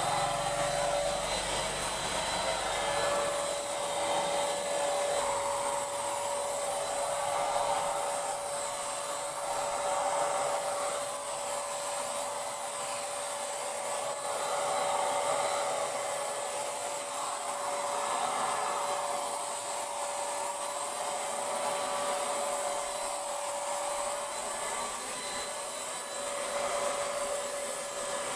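Handheld Paint Zoom electric paint sprayer running steadily: a constant motor whine under a hiss of air and spray that swells and fades every few seconds.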